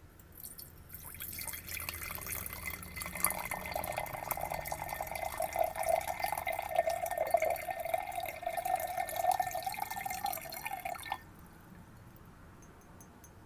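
Water poured into a glass: a continuous splashing trickle that runs for about ten seconds and cuts off suddenly.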